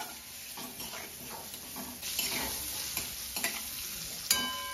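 Whole boiled eggs sizzling in hot oil in a metal kadai, pushed around with a metal spatula that scrapes and clicks against the pan. About four seconds in, the spatula strikes the pan once and it rings.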